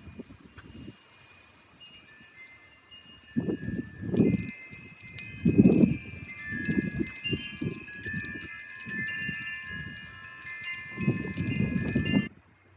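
Wind chimes jangling in gusty wind: many overlapping ringing metallic tones, busiest from about four seconds in. Irregular loud gusts of wind buffet the microphone with a low rumble. Both cut off abruptly near the end.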